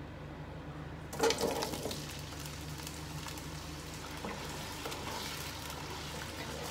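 Round-cut potato slices tipped into hot oil about a second in, setting off a sudden loud sizzle that settles into steady frying with small crackles as they are stirred with a wooden spatula.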